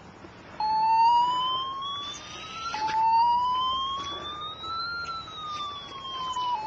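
A siren wailing, starting about half a second in. Its pitch climbs slowly, drops back, climbs again, then falls in a long sweep near the end.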